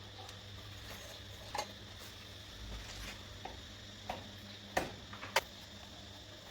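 A few light, sharp clicks and knocks, about four spread out, over a steady low hum.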